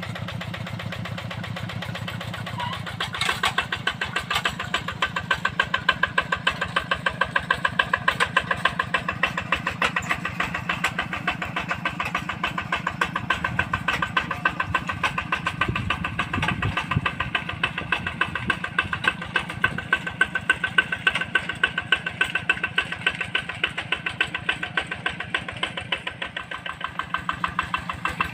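Yanmar tractor's diesel engine running with an even, rapid chugging beat; it gets louder about three seconds in and then holds steady.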